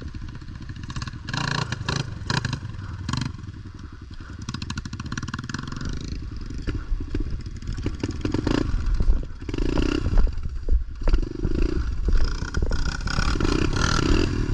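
Pit bike's small single-cylinder engine running under the rider, opened up in bursts with a rising and falling rev about ten seconds in and again near the end, with clattering knocks in the first few seconds.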